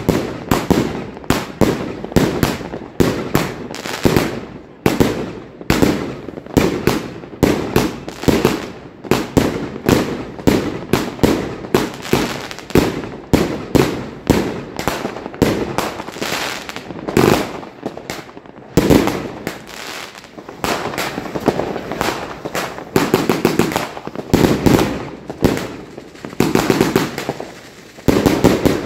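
Fireworks and firecrackers going off in quick succession, several bangs a second overlapping, with a brief lull about two-thirds of the way through before denser volleys resume.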